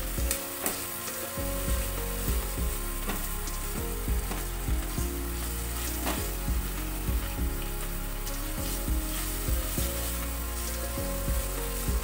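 Ginger paste and ground spices sizzling as they fry in a pan while being stirred, with frequent irregular knocks and scrapes of the stirring utensil against the pan.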